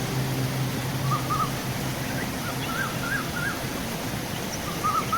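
Birds giving groups of short, wavering calls over a steady rush of river water, with the last held note of guitar music fading out in the first second or so.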